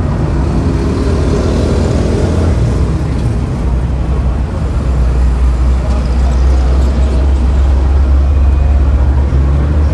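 Road traffic with a steady low vehicle rumble of engine and tyres, growing stronger and slightly louder about halfway through.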